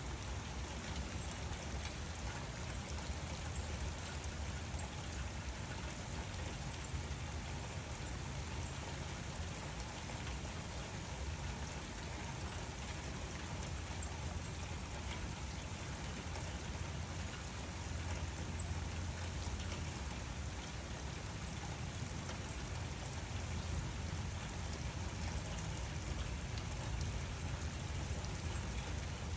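Steady rain falling, an even patter of drops with a low rumble underneath.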